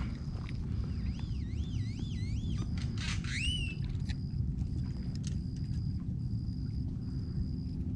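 A bird's whistled call: a wavering up-and-down whistle repeated about four times, then one rising whistle. Under it runs a steady low outdoor rumble, and a faint high-pitched buzz breaks on and off.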